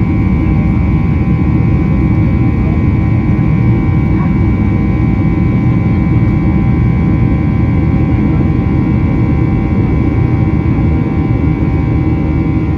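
Boeing 737-800 cabin noise in flight: a loud, steady rush of airflow and engine rumble, with the steady whine of the CFM56-7B turbofans above it.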